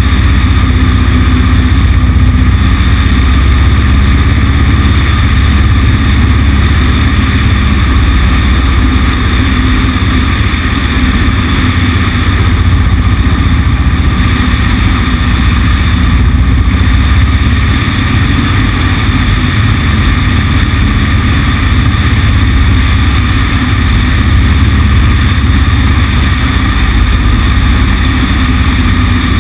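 Cessna 150's four-cylinder Continental O-200 engine and propeller running steadily, heard from a camera mounted on the wing, with a strong low hum and no change in speed.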